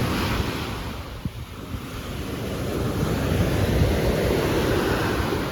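Sea waves breaking on the beach, with wind buffeting the microphone; the surf dips about a second in, then swells again.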